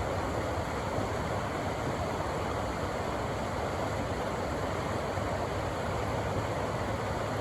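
Rushing river water: a steady, even rush.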